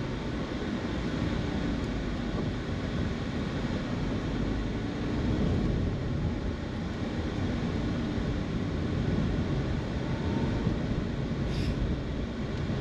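Car driving on a road: steady engine and tyre noise, with a faint engine hum rising and falling near the middle, heard from inside the cabin.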